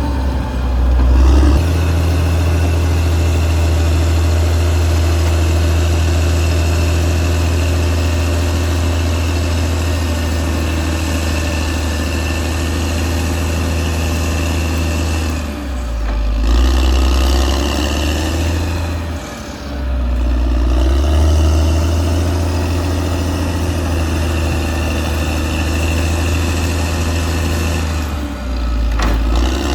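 Caterpillar D6R XL bulldozer's diesel engine running steadily while working. Its note dips and picks up again briefly about three times.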